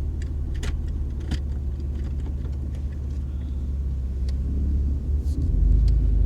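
Car engine and road noise droning steadily inside the cabin while driving, with a few light clicks and knocks. The low rumble swells louder about five and a half seconds in.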